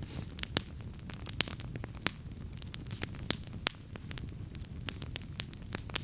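Wood campfire burning, with irregular sharp crackles and pops of varying strength over a steady low rumble of the flames.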